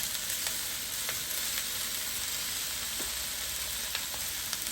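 Onions and summer squash frying in hot oil in a pan: a steady sizzle with a few small pops, the vegetables left undisturbed to brown.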